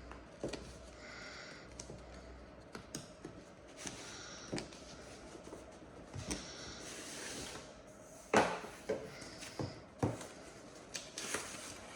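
Hands opening and handling a diecast model airplane's box and packaging: scattered small clicks and knocks of cardboard and plastic with brief rustles, the loudest knock about eight seconds in.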